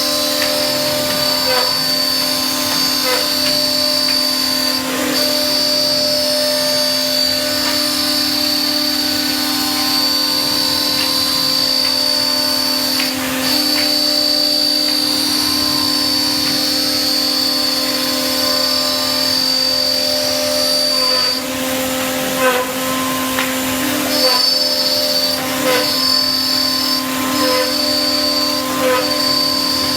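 Six-head CNC mortising machine running: steady whine of its router spindles over a lower hum, with a regular click about once a second. The high whine cuts out briefly a few times, around a quarter of the way in, near the middle and in the last third.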